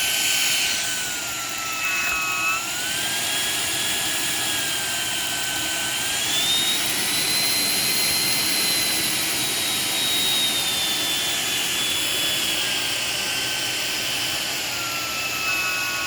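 Shark PowerDetect cordless stick vacuum running with a high motor whine and rushing air; the whine's pitch dips briefly about two seconds in, climbs in the middle and sinks again near the end as the airflow through the nozzle changes.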